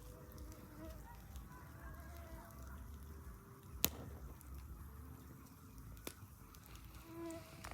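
Campfire crackling softly, with a sharp pop about four seconds in and a smaller one about two seconds later. Faint short high tones come and go beneath it.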